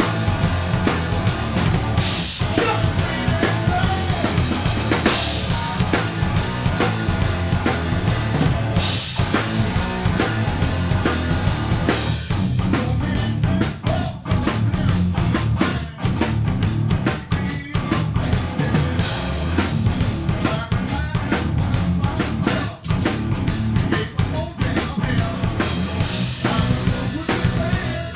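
Nu-grunge rock band playing live, with a full drum kit (bass drum and snare) driving the song. About halfway through, the drumming turns to fast, even hits.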